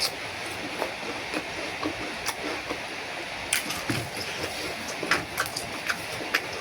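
Someone eating noodle soup: wet slurping and chewing with irregular sharp clicks, typical of spoon or chopsticks against the bowl.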